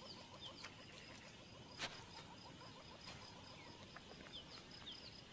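Faint bush ambience: a steady pulsing insect trill with small bird chirps, and a single soft click about two seconds in.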